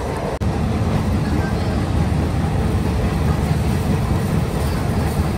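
Steady low rumble of a commuter train running, heard from inside the carriage, with a brief break about half a second in.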